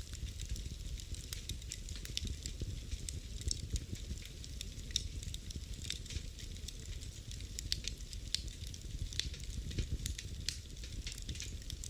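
Wood fire burning in a fireplace, with a steady low rumble and hiss and many sharp, irregular crackles and pops.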